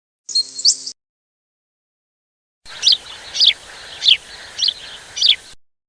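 Bird calls: a brief burst of high chirping, then after a pause a run of five quick calls, each sweeping downward in pitch, about 0.6 s apart over a faint outdoor hiss.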